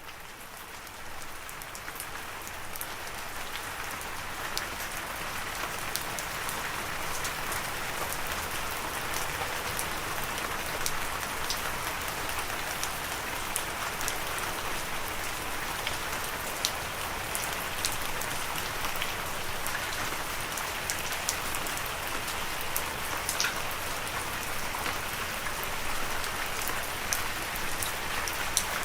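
Steady rain falling, with individual drops ticking sharply through the hiss. It fades in over the first couple of seconds, then holds even.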